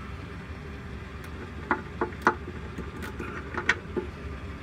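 Several short sharp clicks and light knocks from work at the truck's brakes, spread over a couple of seconds, over a low steady hum.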